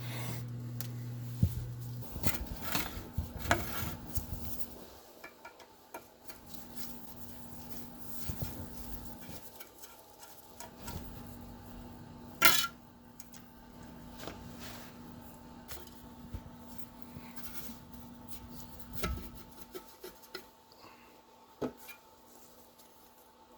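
Small metal parts of an antique electric fan clinking and knocking as they are handled and set down during disassembly, with one sharp clank about twelve seconds in. A low hum stops about two seconds in.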